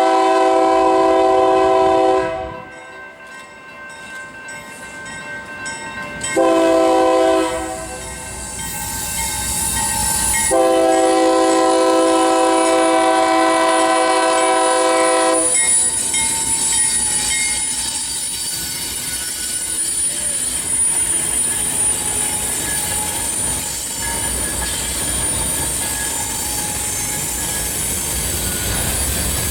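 Union Pacific diesel locomotive blowing its multi-chime air horn in a long-short-long pattern, the end of a grade-crossing signal. The train's wheels then squeal in a steady high whine over the rumble of the passing cars.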